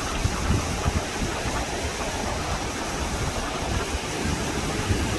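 Mountain river rushing steadily, with an uneven low rumble of wind on the microphone.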